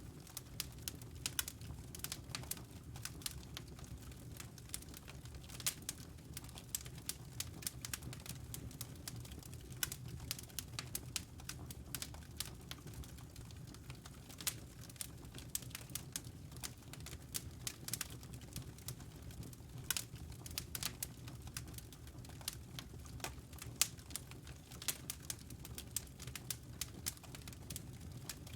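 Wood logs burning in a fireplace, crackling with many irregular sharp pops and snaps over a low, steady rumble of flame.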